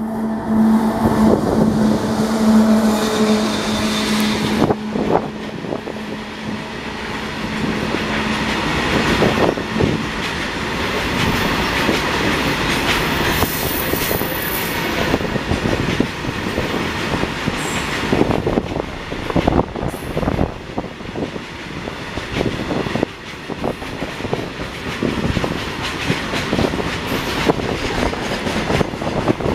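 Loaded freight wagons rolling past, their wheels clattering over rail joints in a continuous clickety-clack with occasional squeal. A steady low tone runs under the clatter for the first several seconds and fades out about nine seconds in.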